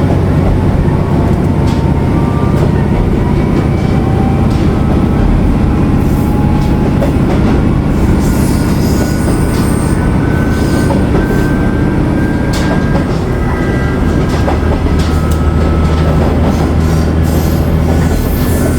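Matsuura Railway MR600 diesel railcar running on the line: a loud, steady rumble and engine hum, with sharp clicks from the wheels over the rails and high wheel squeals, strongest about halfway through and again near the end.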